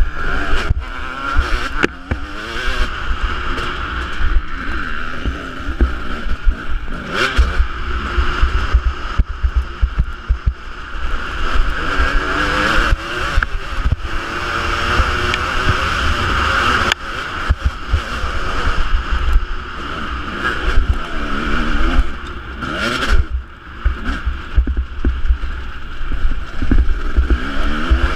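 Husqvarna 250 two-stroke single-cylinder motocross bike engine revving up and falling back over and over as it is ridden, with low wind rumble on the microphone.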